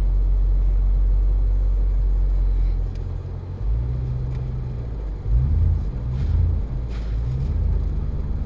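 Vehicle engine running with a low rumble. About three seconds in its pitch and level begin to shift a few times, as if the engine is lightly revved or the vehicle is moving.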